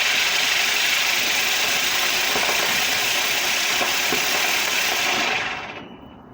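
Ground firework fountain spraying sparks with a steady loud hiss and crackle, burning out about five and a half seconds in.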